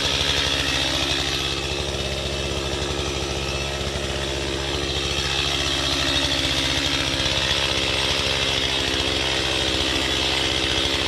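Chainsaw engine running steadily, dipping slightly in loudness from about two to five seconds in before picking back up.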